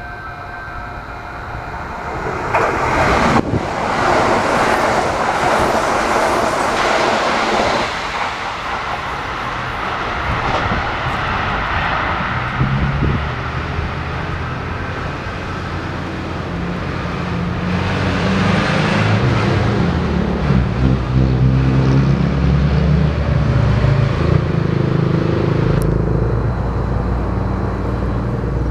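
Kintetsu train passing through without stopping: steady rolling noise of wheels on rail and motors. It swells about three seconds in, eases, then grows louder again in the second half.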